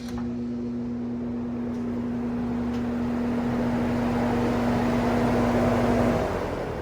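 Vintage Sears box fan running with a strong electrical motor hum under a growing rush of air as the blades speed up. About six seconds in the hum stops and the air rush starts to fade as the fan coasts down. The owner takes the heavy hum as a sign of bad motor windings or a faulty switch.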